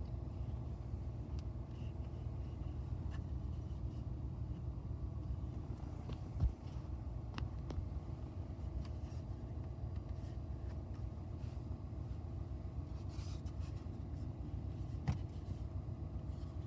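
Steady low rumble inside a pickup truck's cab, with a few small plastic clicks from a dash-mounted phone holder being turned and tilted, and one sharper knock about six and a half seconds in.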